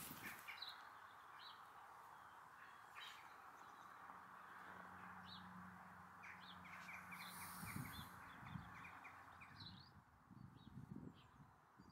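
Faint outdoor birdsong: scattered short chirps, with a quick run of notes about six seconds in, over a low steady hiss.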